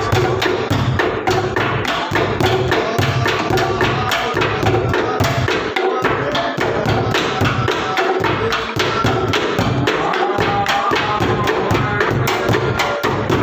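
A bedug, the large Indonesian mosque drum, being beaten loudly in a fast, continuous rhythm for takbiran. Deep booms are mixed with many sharp wooden clacks.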